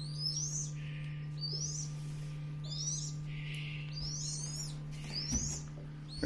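Young myna chicks peeping: thin, high chirps that slide downward, repeated about once a second, over a steady low electrical hum.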